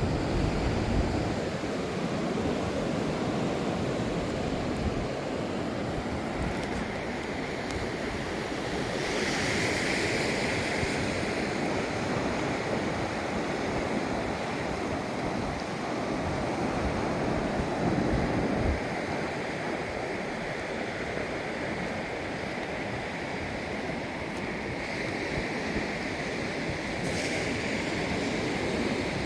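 Ocean surf breaking and washing in as a steady wash of noise that swells and eases gently, with some wind rumbling on the microphone.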